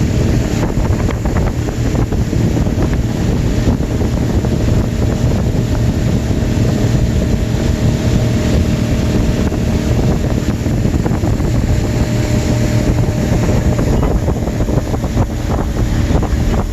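Antique wooden motorboat's engine running steadily under way, with wind buffeting the microphone.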